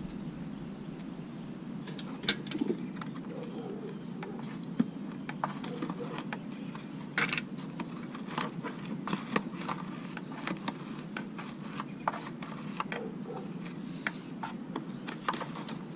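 Hands handling the plastic parts of a dismantled Dirt Devil vacuum cleaner: scattered light clicks and taps over a steady hiss, while its clogged airway is being cleared.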